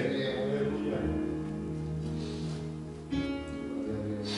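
Soft background worship music on guitar: held chords ringing, with a new chord struck about three seconds in.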